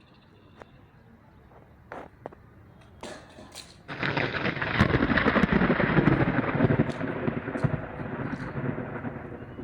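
A thunderclap that breaks suddenly about four seconds in and rumbles on, slowly fading. A few faint clicks come before it.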